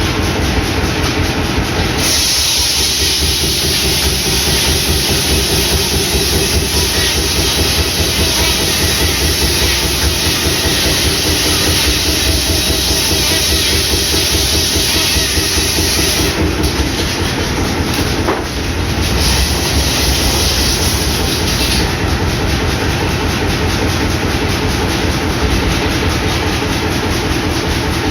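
Sawmill hot-bulb engine running with a steady chugging rhythm while the circular saw cuts through a log, the high hiss of the cut starting about two seconds in, stopping for a few seconds past the middle, then resuming briefly.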